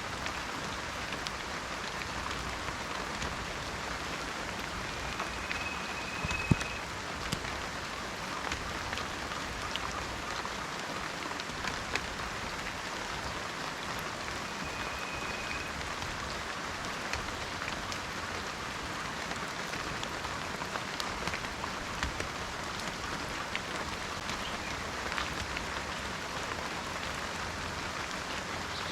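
Steady rain falling in a forest, with a dense patter of individual drops and one sharper drop hit about six and a half seconds in. A faint, short, high whistle sounds twice.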